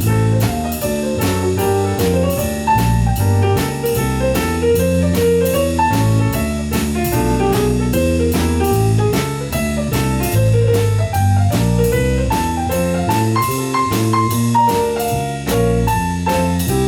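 Instrumental jazz played live: piano chords over a moving bass line, with a drum kit keeping a steady beat of about three strikes a second.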